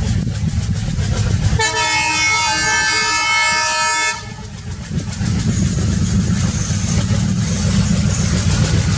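Diesel-hauled passenger train running past with a steady low rumble; about one and a half seconds in, the locomotive's horn sounds one long blast of about two and a half seconds, then the rumble of the train resumes.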